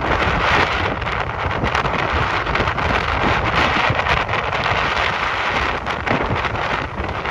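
Typhoon wind gusting across the microphone: a loud, steady rushing noise broken by frequent buffeting thumps.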